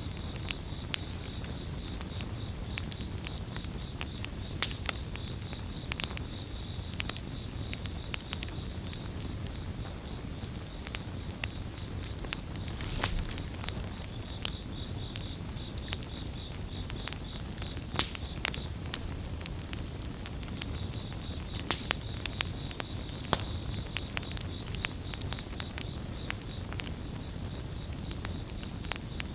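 Campfire crackling, with irregular sharp pops over a steady low rumble of burning wood. Crickets chirp alongside in a high, pulsing trill that pauses now and then.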